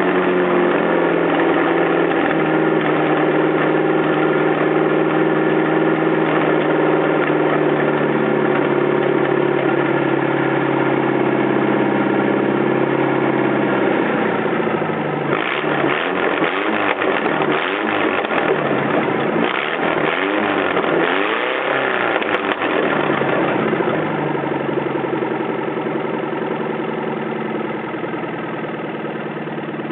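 Toyota 12R four-cylinder engine running with no exhaust fitted: idling steadily, then revved in several quick rises and falls about halfway through before dropping back to idle.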